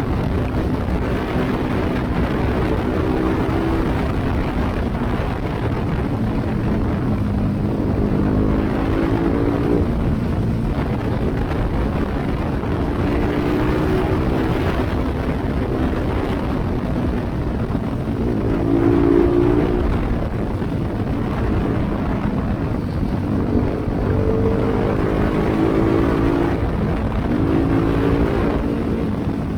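BMW G310GS motorcycle's single-cylinder engine through an open Akrapovic exhaust with the silencer removed, under way on the road; its pitch climbs and drops back about six times as it accelerates and shifts.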